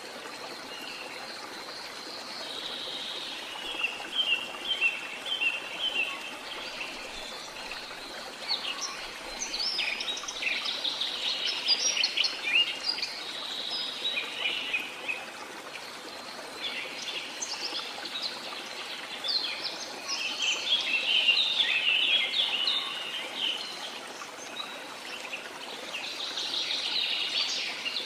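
Waterfall rushing steadily, with jungle birds chirping over it in bouts of quick, high repeated notes.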